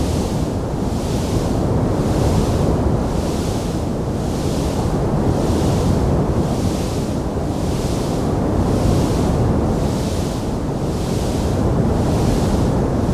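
Wood fire burning in a fireplace: a steady, dense roar heaviest in the low end, with a hiss above it that swells and fades about one and a half times a second. No separate crackles stand out.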